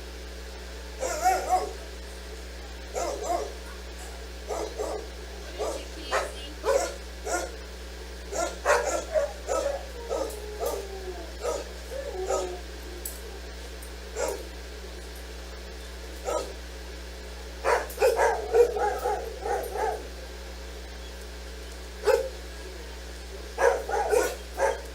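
Dog barking and yipping in short, irregular bursts, with some whining, over a steady low hum.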